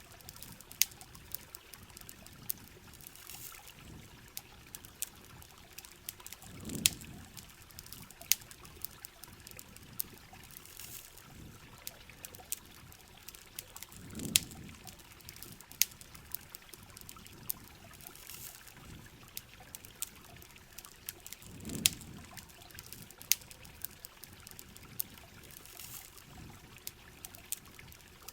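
Steady rain with a crackling campfire: many sharp irregular pops over a continuous hiss of falling water, and a low surge that swells and fades about every seven and a half seconds.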